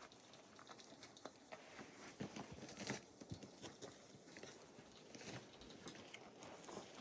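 Near silence with a few faint, scattered scuffs and taps.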